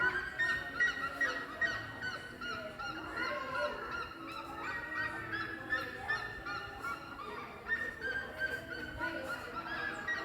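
Birds singing and calling together: a dense, continuous chorus of short, overlapping chirps.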